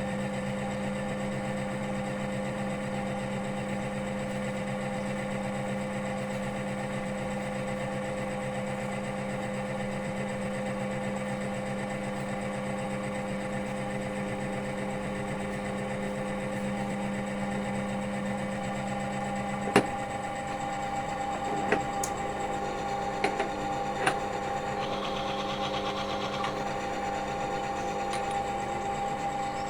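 Motor-driven oil-wear test machine running steadily with a hum and whine, its test roller turning under load in hot engine oil with 6% Metal Guard added. About two-thirds through come a handful of sharp clicks and knocks, followed briefly by a higher-pitched sound.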